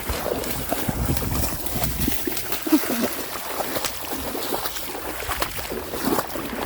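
Outdoor walk in the rain: a steady wet hiss with scattered clicks and splashes of footsteps on wet ground, and wind rumbling on the microphone, most strongly about a second in.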